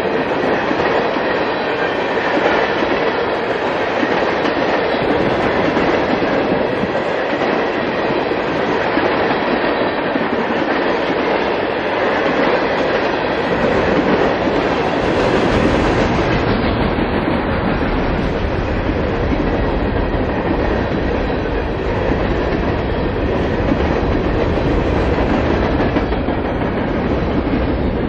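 Long freight train's cars rolling past close by, steel wheels running on the rails in a steady loud rush. A deeper rumble builds up about halfway through.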